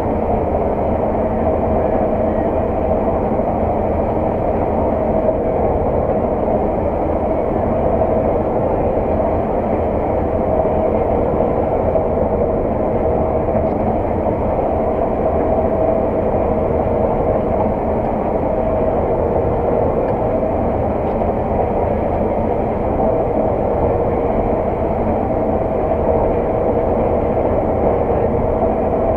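Heavy farm machinery's diesel engine running steadily at working speed, a constant drone with no breaks.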